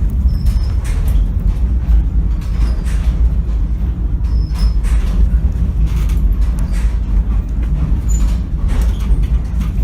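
Passenger train car running along the rails, heard from on board: a steady low rumble with light clicks and rattles.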